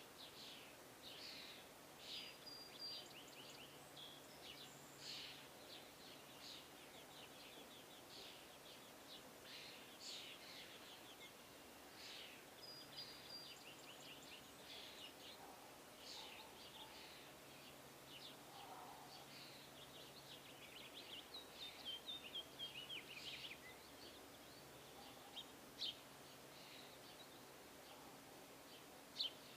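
Small birds chirping and calling, with short scattered chirps throughout and a quick run of falling notes about two-thirds of the way through.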